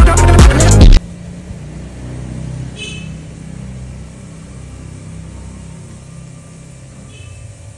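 Loud hip hop music cuts off abruptly about a second in, leaving a steady low vehicle rumble. Faint short high squeaks come about three seconds in and again near the end.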